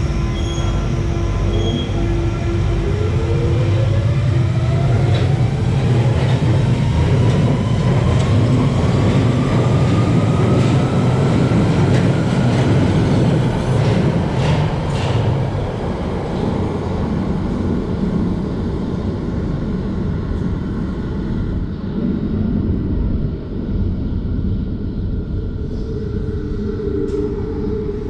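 Central line 1992-stock tube train pulling out of the platform: its traction motors give a whine that climbs steadily in pitch as the train picks up speed, over a loud rumble of wheels and cars. The rumble fades away after about sixteen seconds.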